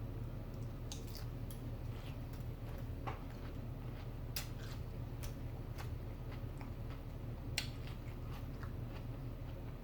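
A person chewing food close to the microphone, with scattered short wet mouth clicks over a steady low hum.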